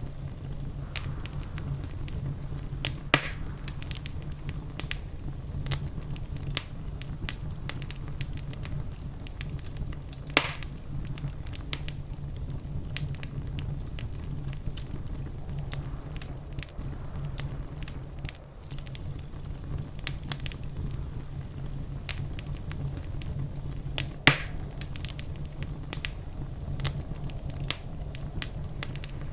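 Wood fire burning in a fireplace: a steady low rumble of flame with scattered crackles and three louder pops, about 3, 10 and 24 seconds in.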